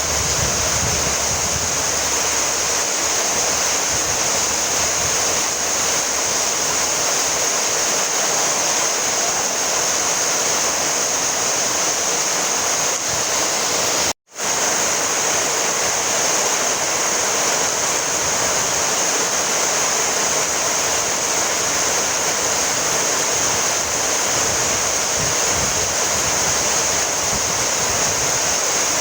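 Steady rainfall, an even hiss with no distinct drops, cutting out to silence for a split second about halfway through.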